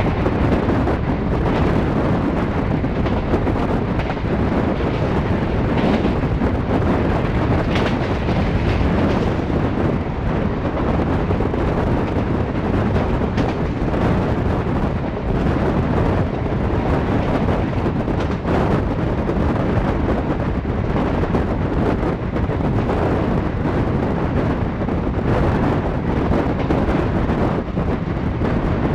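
Passenger train running at speed, heard from an open coach door: a steady rumble of wheels on the rails mixed with wind buffeting the microphone.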